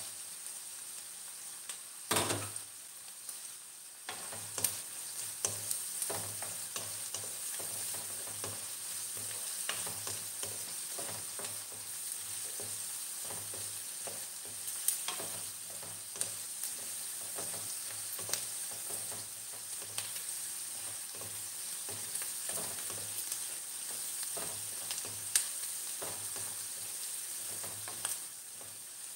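Onions and minced garlic sizzling steadily in hot oil in a frying pan, sautéing, with a wooden spatula scraping and tapping the pan in many short strokes as they are stirred.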